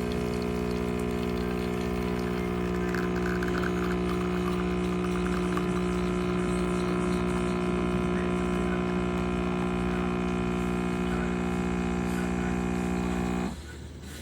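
Espresso machine pump running with a steady, even buzzing hum; it cuts off suddenly near the end.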